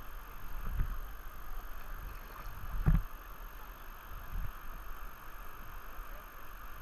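Moving river water running over rocks, a steady rush, with a few low thumps, the loudest about three seconds in.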